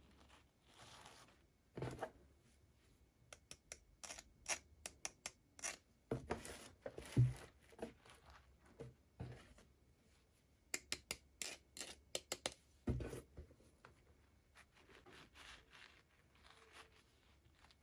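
Toy packaging being handled and opened by hand: bursts of small sharp clicks and snaps with short scraping and rustling, and a soft thump about seven seconds in and again near thirteen seconds.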